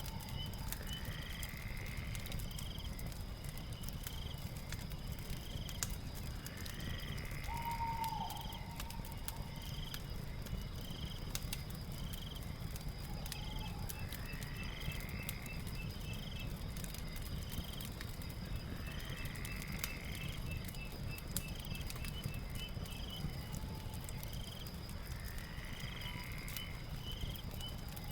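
Night ambience over a crackling fire: scattered sharp crackles and a steady low rumble of the fire, with a constant high insect drone, insect chirps repeating about once a second, and a rising animal call every five or six seconds.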